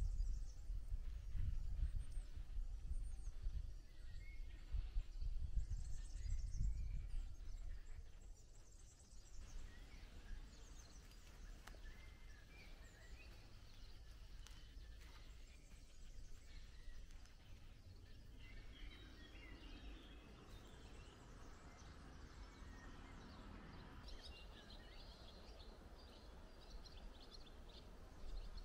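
Small birds chirping and singing in short, scattered phrases, busier in the second half. For the first eight seconds or so, gusts of wind rumble on the microphone.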